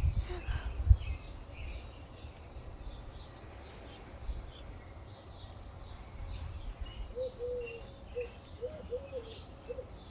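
Small birds chirping and twittering in the background, with a few loud thumps on the microphone in the first second. From about seven seconds in, a run of short, low, arching notes repeats.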